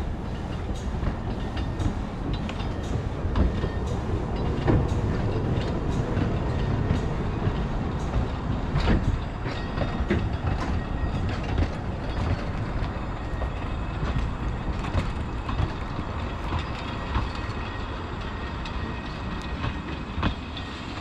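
Narrow-gauge railway coaches rolling past on a departing steam train, the wheels clicking over the rail joints, with a steady rumble that eases as the train draws away near the end.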